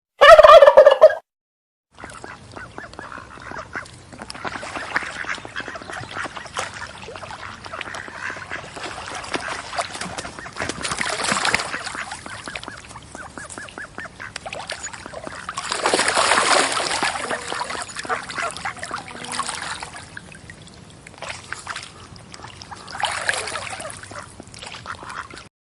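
Domestic fowl calling. A loud pitched call lasts about a second at the start. After a short gap comes a long stretch of noisy flock calling, with louder swells about a third of the way in, just past the middle and near the end.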